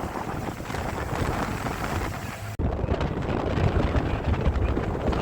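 Wind buffeting the microphone on a fast-moving aluminium fishing boat, over the rumble of its Mercury 150 hp four-stroke outboard and water against the hull. About two and a half seconds in, the sound cuts out for an instant and returns duller, with more low rumble.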